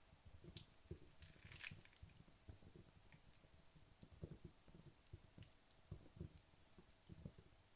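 Wood fire in a fireplace burning low: faint, scattered soft pops and a few sharp crackles, with a brief hiss about a second and a half in.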